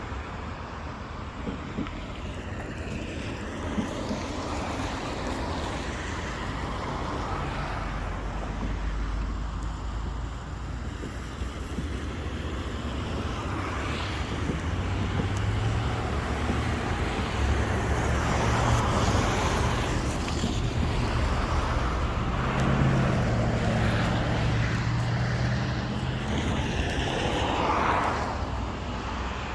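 A vehicle's low engine hum over outdoor background noise. It builds up through the second half and falls away near the end.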